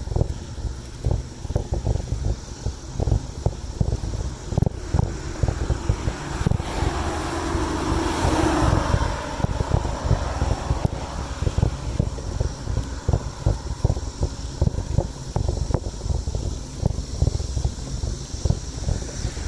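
Wind buffeting the microphone of a moving bicycle, a choppy low rumble with frequent gusts. About seven seconds in a louder rushing sound swells up and fades by about ten seconds, like a vehicle going past.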